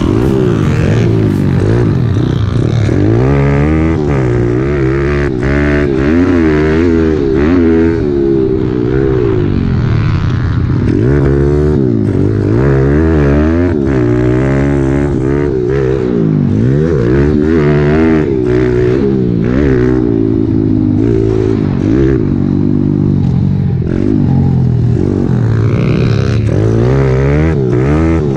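Kawasaki KLX110L pit bike's small single-cylinder four-stroke engine being ridden hard, revving up and falling back over and over, its pitch rising and dropping every second or two. Short clatters and knocks come through now and then.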